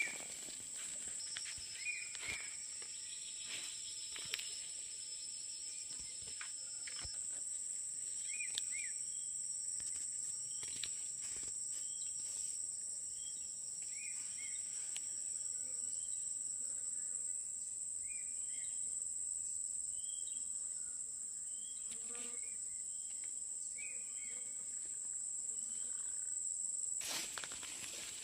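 A steady, high-pitched drone of insects, with short faint chirps every couple of seconds.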